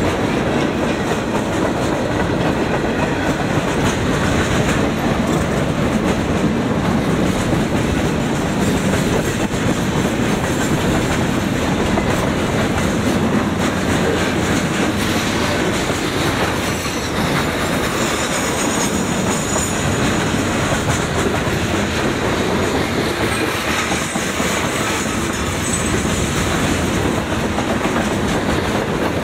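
Freight cars of a long mixed freight train rolling past close by, a steady loud rumble with the steel wheels clicking over the rail joints in a continuous clickety-clack.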